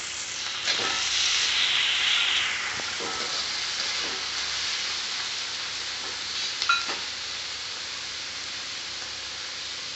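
Chopped onions and tomato pieces sizzling in hot oil in a metal kadhai as they are stirred with a wooden spatula; the sizzle is strongest in the first couple of seconds, just after the tomato goes in, and a few short knocks of the spatula against the pan sound through it.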